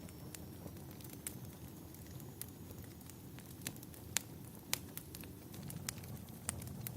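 Wood fire burning in a fireplace, crackling with irregular sharp pops over a low steady rumble. Two pops about halfway through are the loudest.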